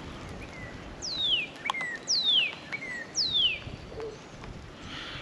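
A songbird singing three loud, sweeping whistles about a second apart, each sliding steeply down in pitch and followed by a short lower note.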